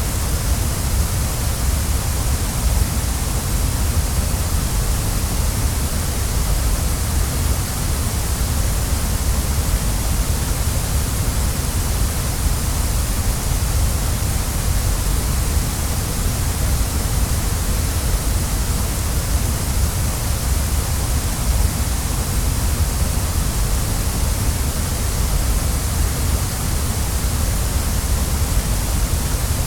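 Waterfall: water falling and rushing in a loud, steady roar with a deep low rumble and a bright hiss, unchanging throughout.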